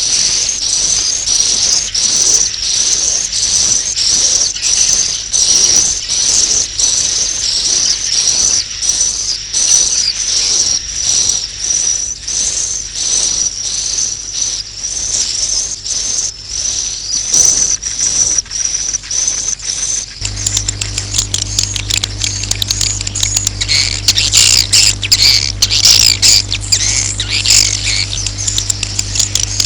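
Recorded swiftlet roosting calls ('suara inap'), the lure sound played to coax swiftlets to settle in a bird house: a continuous high, rapidly pulsing twitter. About two-thirds through it switches to looser, more varied chirping over a low steady hum.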